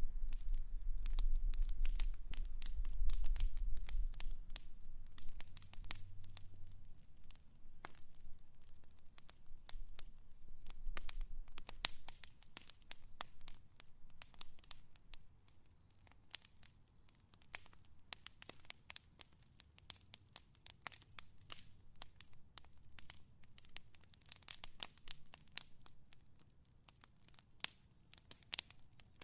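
Fire crackling, with many sharp pops and snaps at irregular intervals. A low rumble under the crackle in the first few seconds fades out.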